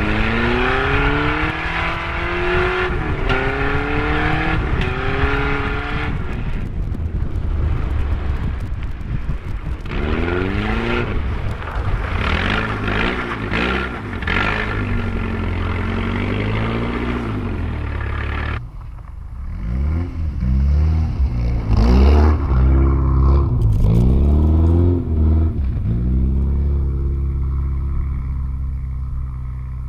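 Volvo 740's naturally aspirated engine revving up and down over and over as the car slides about in the snow, its pitch rising and falling, over a steady hiss. About two-thirds of the way through, the hiss drops away and the engine's low note grows louder.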